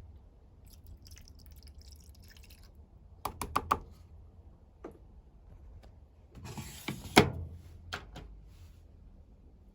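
Hotpoint WML540 washing machine at the start of its cycle: a low hum with a series of sharp clicks and short bursts of splashing water.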